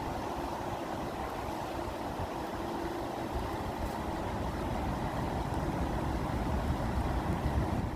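Steady rushing water, a continuous deep rumble with most of its weight low down.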